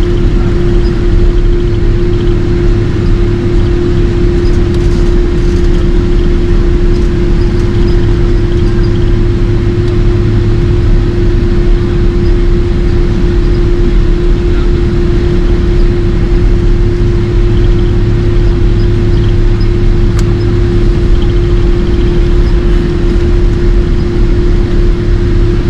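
Icelandair Boeing 767-300's General Electric CF6 jet engines running with an unchanging loud roar: a steady droning hum over a deep rumble.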